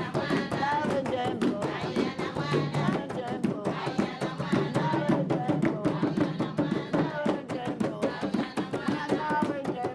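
Women singing together over a quick, steady hand-drum rhythm.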